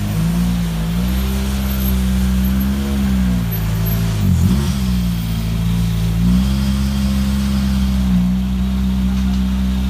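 Škoda Fabia rally car's turbocharged four-cylinder engine idling, the pitch wavering up and down, with a brief dip and recovery about four and a half seconds in.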